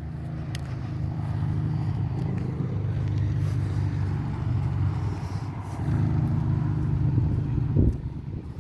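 A motor vehicle's engine running close by, a steady low hum that eases off about five seconds in, picks up again a second later and fades near the end.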